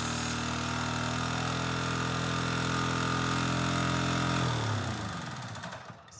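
Restored Yanmar generator's engine running steadily, then shut off about four and a half seconds in, its note falling as it spins down and stops.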